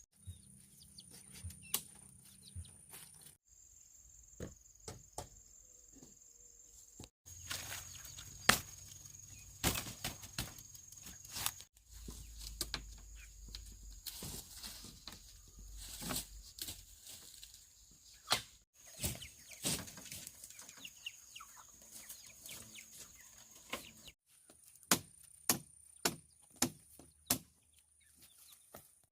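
Bamboo being chopped with a blade: sharp strikes in uneven runs, with a quick series of about five blows near the end, over a steady high insect drone.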